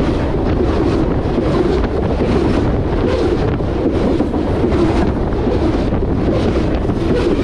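BNSF freight train's hopper cars rolling past at rail level: a loud, steady roar of steel wheels on the rails, with wind on the microphone.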